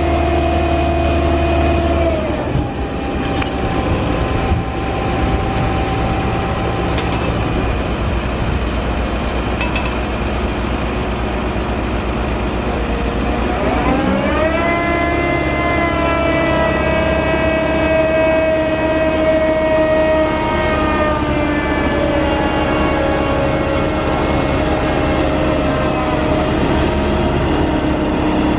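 Diesel engine of heavy machinery running. Its pitch drops about two seconds in, revs up sharply about halfway through, then slowly eases back down.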